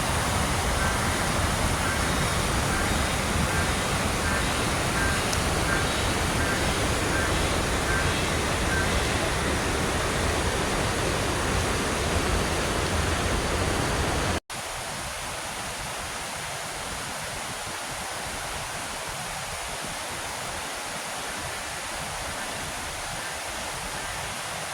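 Waterfall: falling water rushing steadily, full of deep rumble at first, then, after an abrupt cut about 14 seconds in, quieter and thinner with the low rumble gone.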